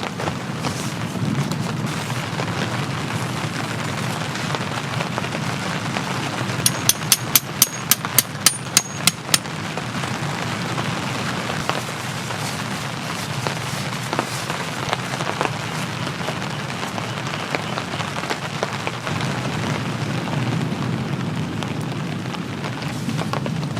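Steady rain falling. About seven seconds in comes a quick run of about ten sharp, ringing clicks, roughly four a second, lasting under three seconds.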